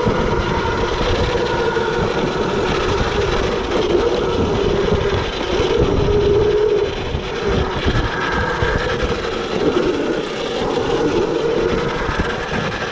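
Electric dirt bike's motor whining while riding, its pitch wandering up and down with speed, over heavy wind noise on the microphone.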